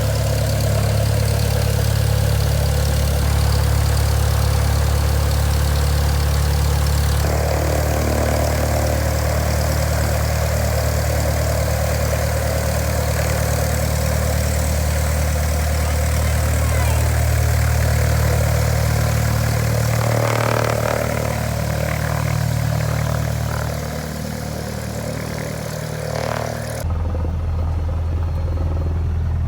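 Cessna 172 Skyhawk's four-cylinder piston engine and propeller running steadily at low power. The sound changes abruptly about 7 seconds in and again near the end.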